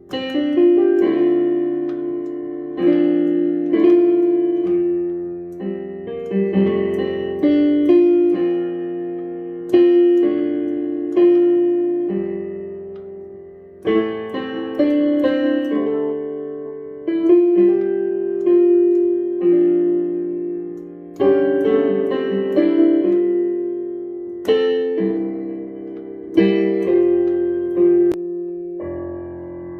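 Solo piano playing a slow arrangement of a worship song: chords struck every second or two and left to ring and fade.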